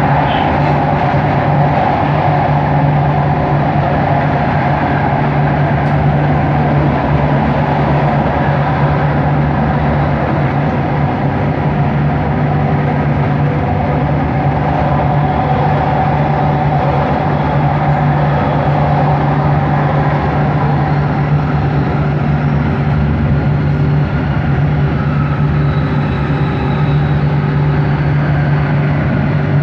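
Bombardier Innovia ART 200 train running at a steady speed, heard from inside the car: a steady low hum from its linear induction motor over even rolling and running noise.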